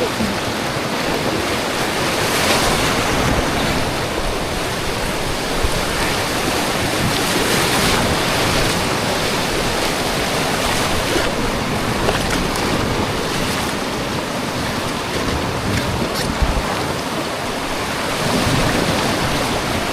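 Fast river water rushing and splashing around a tube riding the current, a steady loud rush.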